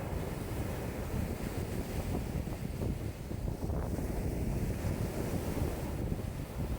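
Wind-driven lake waves washing steadily, with strong wind gusting and buffeting the microphone.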